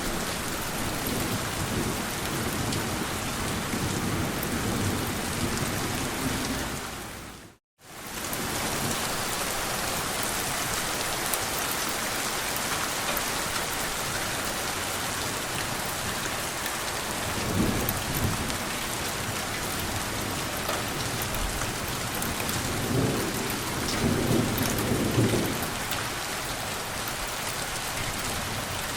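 Steady heavy rain falling, with low rumbles of thunder about two-thirds of the way in and again near the end. The rain cuts out for a split second about a quarter of the way in.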